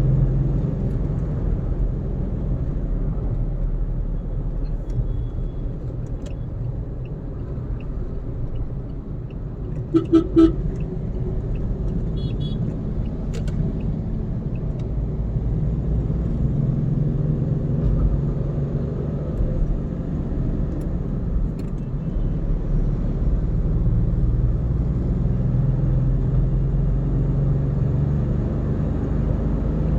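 Steady road and engine rumble of a car driving on a highway, with two short car-horn toots about ten seconds in.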